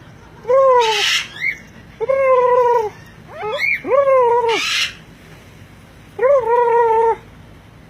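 A parrot calling: a series of loud, drawn-out calls that rise and then fall in pitch, with two short, harsh hissing screeches among them.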